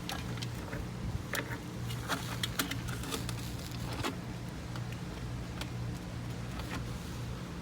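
Scattered light clicks and knocks of PVC pipe and fittings being handled and fitted together, over a steady low hum.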